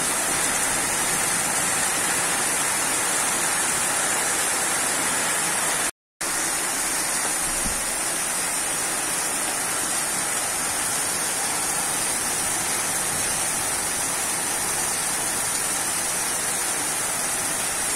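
Rain falling steadily in a storm, a dense even hiss with no thunder; the sound drops out completely for a moment about six seconds in.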